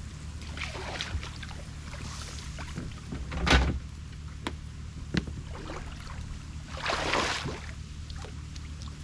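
A canoe paddle swishing through the water in separate strokes, the loudest about three and a half seconds in and a longer one around seven seconds, over a steady low rumble.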